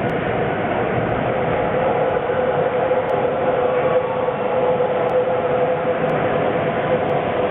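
Sapporo Namboku Line rubber-tyred subway train running in the station, a steady rushing noise with a hum that swells in the middle.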